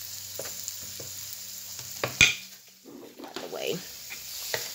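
Yam slices frying in butter and brown sugar on an electric griddle: a steady sizzle, with a utensil scraping and clicking against the griddle plate as the slices are moved. One sharp knock a little over two seconds in is the loudest sound.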